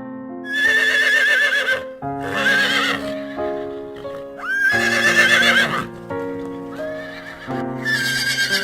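A horse neighing four times, each whinny a shaky, wavering high call, over a gentle piano tune.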